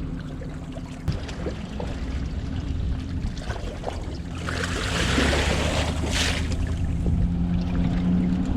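Water sloshing and splashing in a tarp-lined truck-bed pool, with a louder scoop-and-pour rush lasting about two seconds midway, over a low steady hum.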